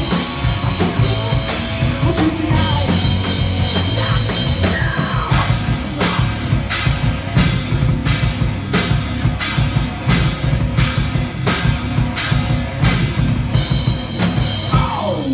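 A heavy metal band playing live and loud, with full drum kit. From about five seconds in, the drummer hits evenly spaced cymbal crashes, roughly one every 0.7 seconds.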